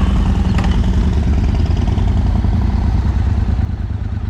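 Motorcycle engine running with a steady low rumble, dropping a little in level near the end.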